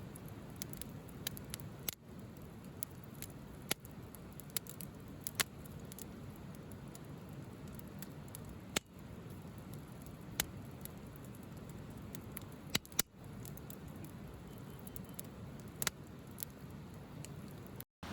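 Burning firewood crackling: irregular sharp pops and snaps over a low steady hiss.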